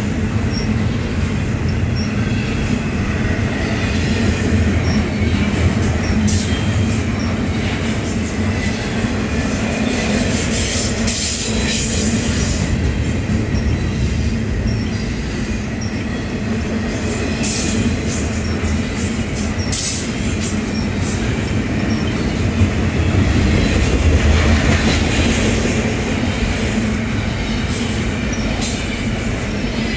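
Double-stack container train's well cars rolling past trackside: a steady rumble of steel wheels on rail, with high-pitched wheel squeal and sharp clicks coming and going.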